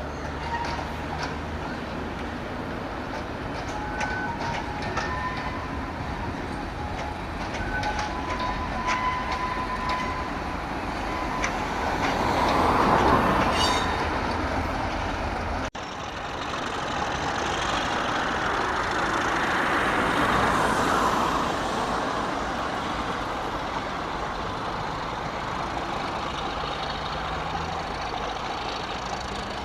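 Trains passing on the line, the sound of each swelling to a peak and fading, two passes in all, with a few brief high-pitched tones before the first.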